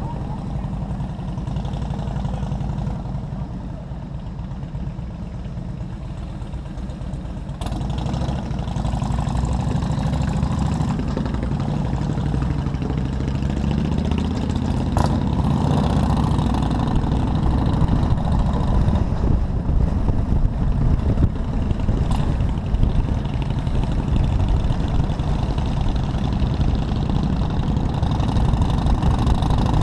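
Motorcycle engine running as the bike rides along, with a steady low sound that gets louder about a quarter of the way through.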